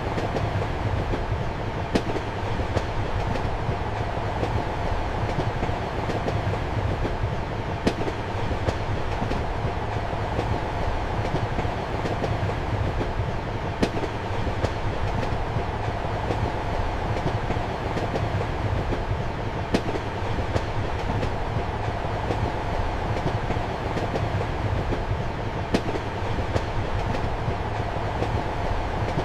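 Moving passenger train heard from inside a compartment: a steady rumble and hum, with a sharp click from the wheels about every six seconds.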